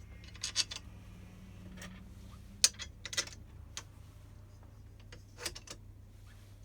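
Scattered light clicks and taps of metal printer-frame parts and bolts being handled while the top bar of an Ender 3 V2 3D printer is fitted, over a low steady hum.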